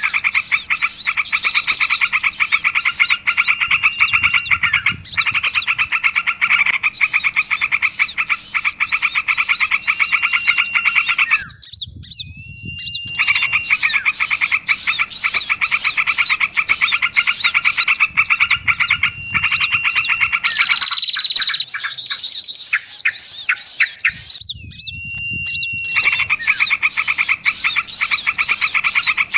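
Bird-lure recording of small songbirds calling in a noisy chorus: fast, dense, repeated chirps layered over one another, of the kind used to draw small birds in for trapping. The chorus breaks off twice, about twelve and twenty-five seconds in, leaving a short steady whistle before it resumes.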